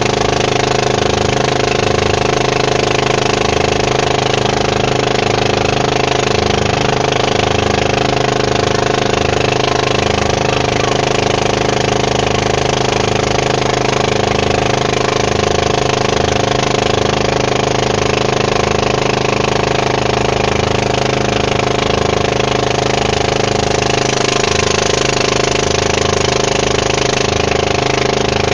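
Boat engine running steadily at a constant speed, loud and even, with no change in pitch.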